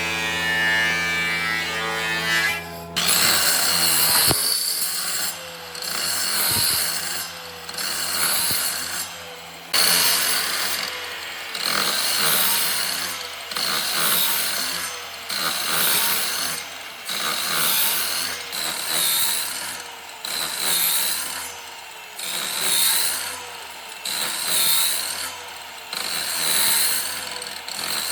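A power tool's motor runs steadily and stops about three seconds in. Then a tool works wood in long, regular strokes, roughly one every one to two seconds.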